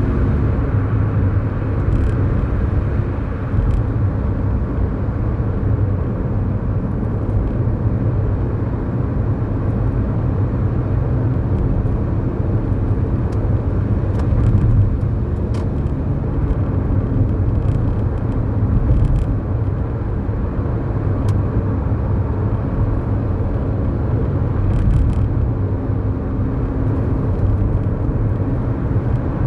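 Inside the cabin of a 2011 Kia Morning, its 999 cc four-cylinder SOHC engine runs at a steady cruise over road rumble, with a few faint clicks.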